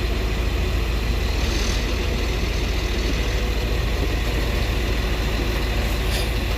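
Heavy diesel engine running steadily close by, a deep, even rumble with a fast pulse.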